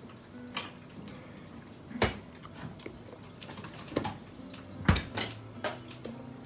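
Dishes and cutlery clinking and knocking in a small room, with sharp clinks about two, four and five seconds in, over a low background murmur.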